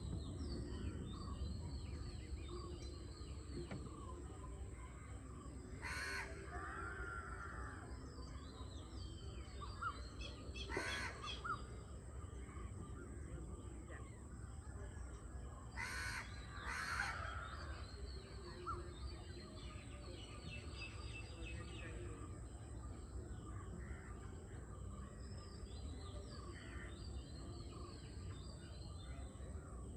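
Crows cawing four times, spread out, with the last two close together, over a constant chorus of small birds chirping and a low background rumble.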